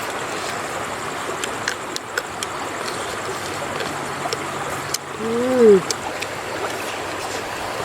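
Steady rush of running water with scattered light clicks, and one short call, rising then falling in pitch, about five seconds in.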